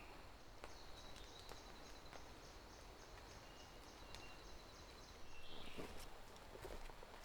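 Quiet rainforest ambience: a faint, high-pitched animal call pulsing rapidly and evenly for several seconds, with a few short high chirps, a brief louder rustle about five and a half seconds in, and scattered soft clicks.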